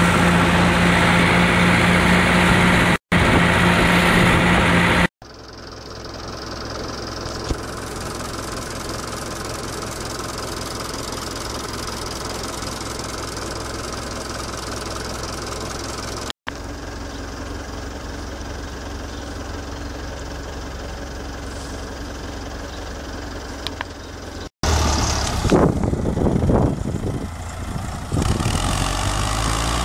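Someca 750 DT tractor's diesel engine running in a series of cut-together clips: loud at a steady speed at first, then quieter and steady for a long stretch, then louder again and revving up and down near the end.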